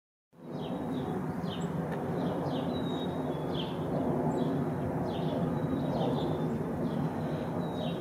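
Small songbirds chirping, short high chirps about once a second with a couple of thin held whistles, over a steady low background rumble.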